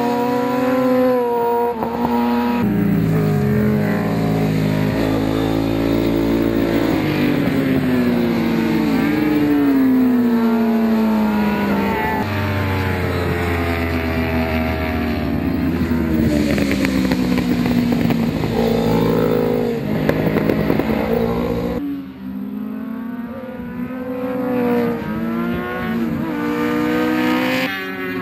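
1000 cc superbike racing motorcycles with inline-four engines running at racing speed, their pitch repeatedly climbing and dropping through gear changes. The sound changes abruptly about three quarters of the way through.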